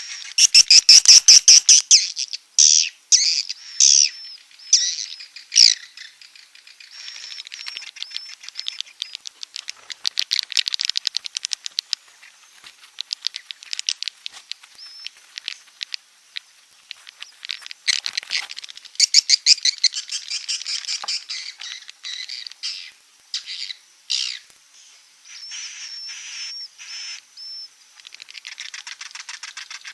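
Swiftlet calls: rapid clicking chirps and buzzy trills in dense bursts, louder and softer by turns. This is a roosting lure recording of the kind played in swiftlet houses to draw swiftlets in to stay.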